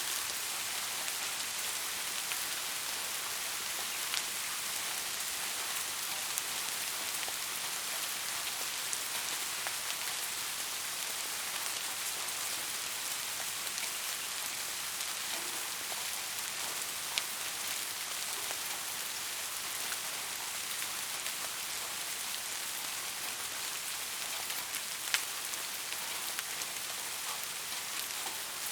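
Steady rain falling, an even hiss with a few louder single drops ticking now and then, the sharpest about 25 seconds in.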